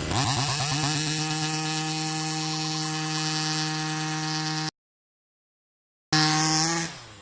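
Rovan Baja 1/5-scale RC car's ported 45cc two-stroke petrol engine with side pipe, revving up and then held flat out at a steady high pitch. After a break of total silence it is heard again at the same pitch, then its revs fall away near the end.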